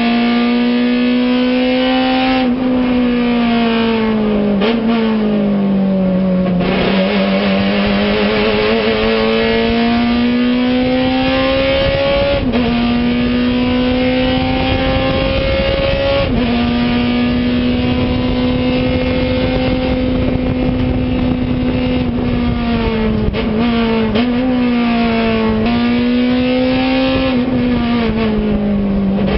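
Acura Integra race car's four-cylinder engine heard from inside the cockpit, held at high revs under full throttle. Its pitch drops sharply at each gear change and dips and climbs again several times as the driver lifts and shifts down.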